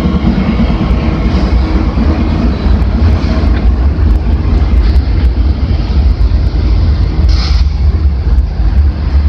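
Freight train of autorack cars rolling across a steel girder bridge behind a lone Union Pacific diesel locomotive: a steady heavy low rumble, with a brief high hiss about seven seconds in.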